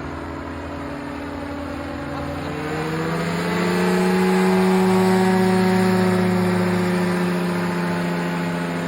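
Engine and propeller of a powered parachute flying overhead. It speeds up from about two seconds in, rising in pitch and getting louder, then holds a steady higher note as it passes.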